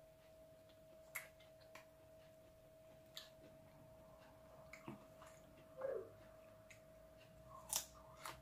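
Faint eating sounds from someone chewing soft mango slices: a few scattered wet mouth clicks and lip smacks over a faint steady tone.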